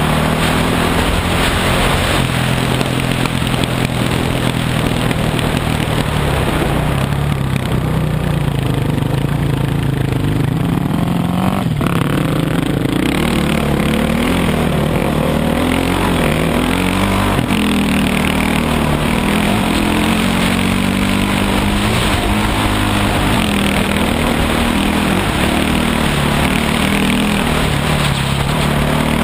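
Dirt bike engine running while riding, its pitch steady at first and then rising and falling repeatedly as the throttle changes, over a steady rush of noise.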